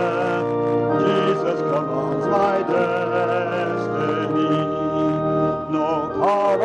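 Church organ playing sustained hymn chords, with congregational voices singing along.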